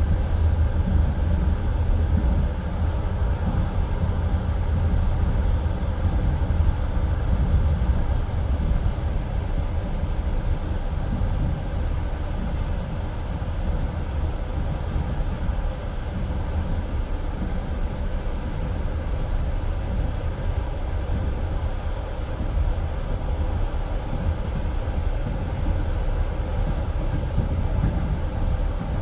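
Passenger train carriage running along the line, a steady heavy rumble of wheels on rails heard from inside the car.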